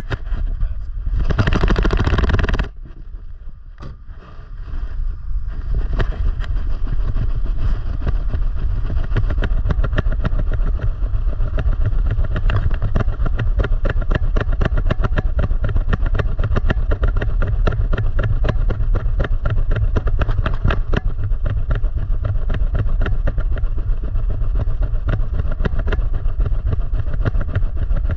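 Heavy rumbling buffeting with a fast, continuous rattle from a GoPro strapped to a small running dog, the camera jostled by its strides. A loud rushing burst comes about a second in, then a quieter few seconds before the rumble and rattle settle in steadily.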